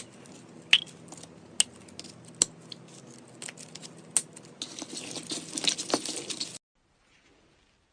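Slime being worked by hand, giving sharp popping clicks about once a second, then a denser run of crackling pops for a couple of seconds before the sound cuts off suddenly.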